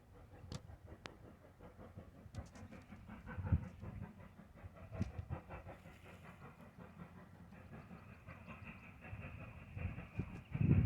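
Train running on rails: a faint low rumble with scattered, irregular clicks of wheels over the track, growing louder near the end as it comes closer.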